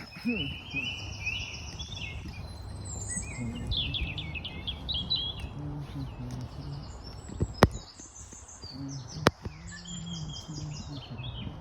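Several songbirds singing and chirping at once, with short repeated trills and chirps. Two sharp clicks stand out, about seven and a half and nine seconds in.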